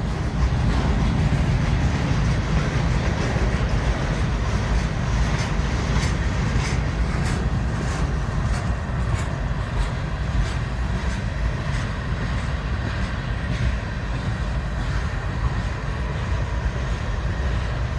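CSX freight train cars rolling past, a steady rumble with scattered clicks of wheels over the rail joints.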